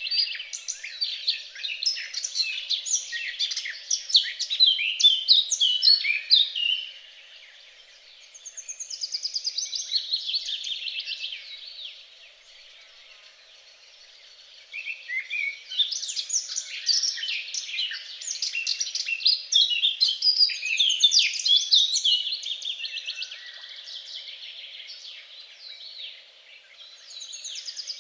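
Songbirds singing long runs of rapid, high chirps and trills, breaking off twice for a couple of seconds before starting up again.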